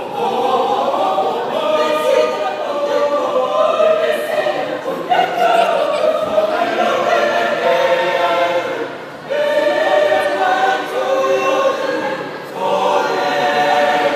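A choir singing in harmony, long sustained phrases with short breaks for breath about nine seconds in and again near the end.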